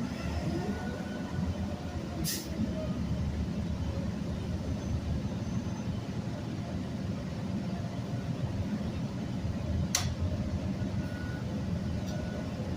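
City transit bus riding, heard from inside: a steady low rumble of engine and road noise. Two short sharp clicks come about two seconds in and again near ten seconds.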